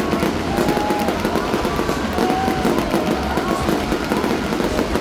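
Fireworks going off in a dense, continuous run of crackling bursts, mixed with loud music.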